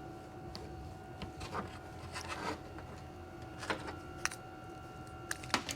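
Faint scattered clicks and scrapes of a seal pick working old seals out of a hydraulic cylinder gland, over a steady hum.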